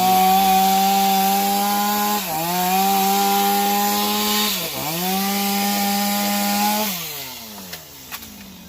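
Chainsaw running at high revs while cutting up a fallen tamarind tree. Its pitch dips briefly twice, then falls away near the end as the throttle is released.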